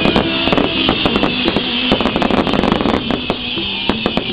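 Fireworks display: many shells bursting and crackling in rapid succession over a continuous hiss, with music playing underneath.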